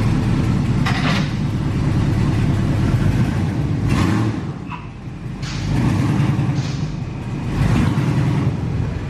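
Pickup truck's V8 engine running loud and revving up and down, easing off about five seconds in and building again. Short hissing bursts sound about a second in and again near four seconds.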